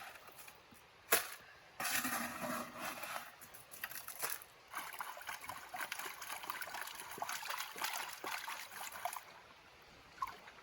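Water sloshing and trickling, with a sharp click about a second in.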